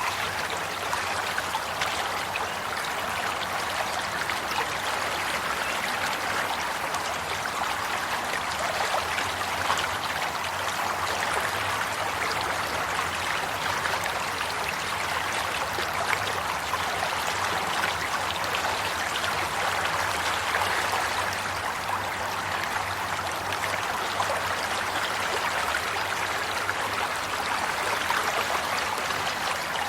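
Flowing water: a steady stream or small cascade of water running and splashing, with many fine droplet splashes.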